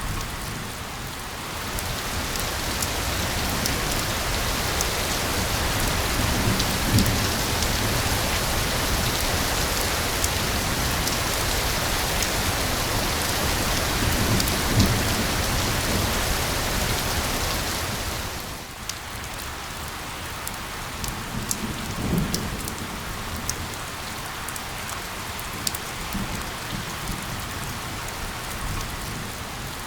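Steady rain pattering on a surface, with scattered sharp drops, growing heavier a couple of seconds in and easing back about two-thirds through. Low rumbles of distant thunder come three times.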